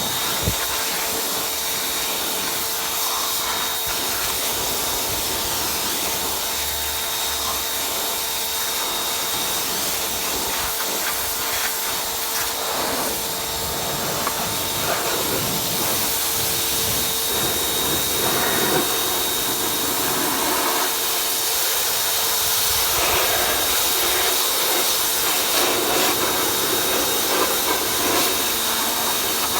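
Pressure washer spraying water onto a dirt bike: a steady hiss of spray over the constant hum of the washer's motor and pump.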